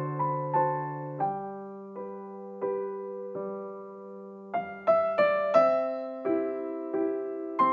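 Gentle background piano music, single notes struck at a slow, unhurried pace over sustained lower notes.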